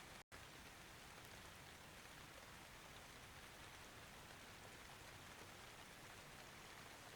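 Faint, steady rain with no thunder. The sound cuts out completely for an instant shortly after the start.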